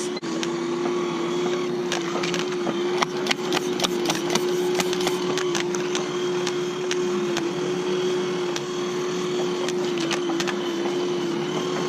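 A small electric motor in an R/C model warship runs with a steady hum, its pitch dipping slightly now and then. Scattered sharp clicks and cracks sound over it, in clusters, typical of the model's BB cannons firing and BBs striking the hulls.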